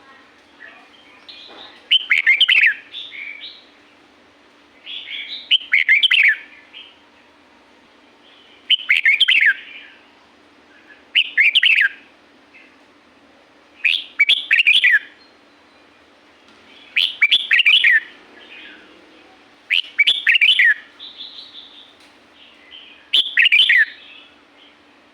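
Red-whiskered bulbul singing: short warbled phrases repeated about every three seconds, eight in all, over a faint steady low hum.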